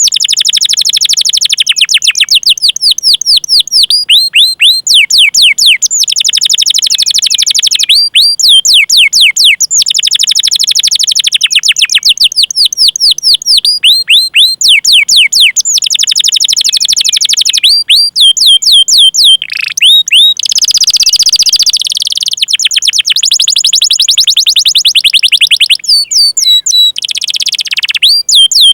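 Domestic canary singing: loud runs of rapid, repeated chirping notes, each a quick downward sweep, in bursts of a second or two, with a dense unbroken rolling trill a little past the middle.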